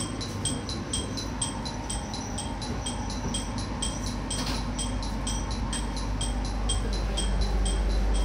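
Train rolling slowly into a station, heard from inside the cab: a steady low running rumble that grows louder near the end. Over it a high metallic chime rings about three times a second.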